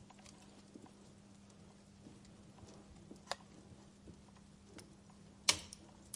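Wood fire crackling softly with sparse small ticks, a sharper pop a little past three seconds and a louder pop about five and a half seconds in.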